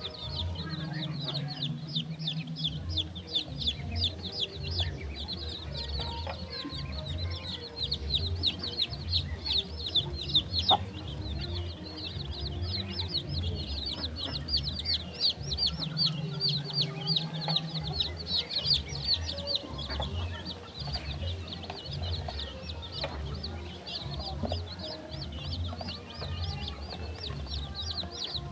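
A brood of young poultry chicks peeping nonstop, many high, short, falling chirps a second, over a low steady hum.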